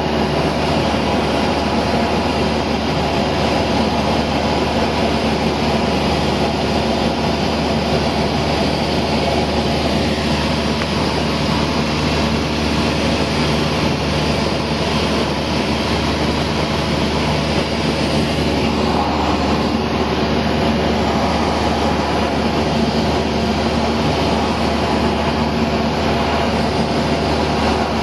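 Cessna 172 engine and propeller droning steadily in cruise flight, heard from inside the cabin.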